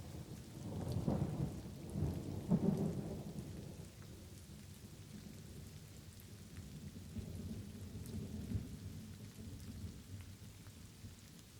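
Light steady rain with a roll of thunder: a low rumble swells in about a second in and peaks around two and a half seconds, then dies away, and a softer rumble returns later.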